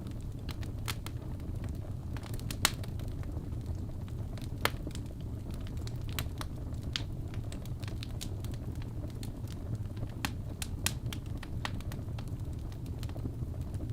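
Wood fire crackling in a fireplace: irregular sharp pops and snaps over a steady low rumble of burning, with the loudest pops a little under 3 seconds in and near 5 seconds.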